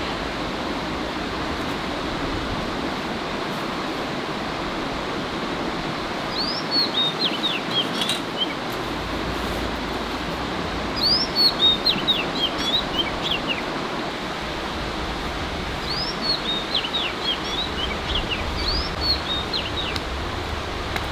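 A songbird sings four short phrases, each a quick run of high chirping notes that drop in pitch. A steady rushing noise runs underneath.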